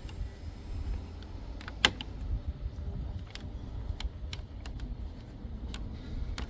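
Small plastic clicks and taps from handling a washing machine's control board and locking its ribbon-cable connector, with one sharper click about two seconds in, over a steady low background rumble.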